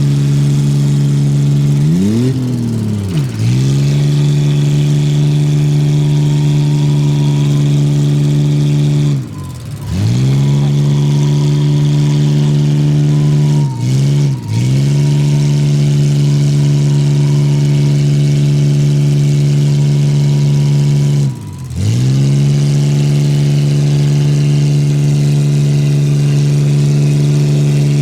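Pickup truck engine held at high, steady revs under full throttle while pulling in a truck tug-of-war, straining hard enough that it soon overheats. About four times the revs drop sharply and climb straight back.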